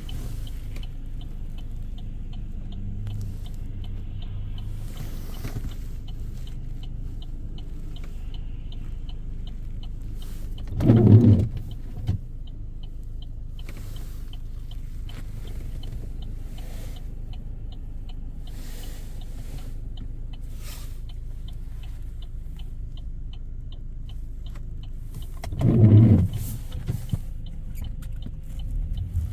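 Car driving, heard from inside the cabin: a steady low rumble of road and engine noise. A long run of faint, evenly spaced ticks runs through the first half or more, and two louder, brief low swells come a little over a third of the way in and near the end.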